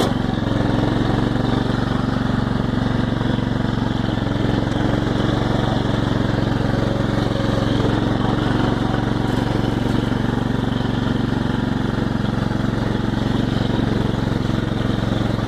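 Small tractor engine running steadily at an even speed as the tractor is driven, with no revving or bumps.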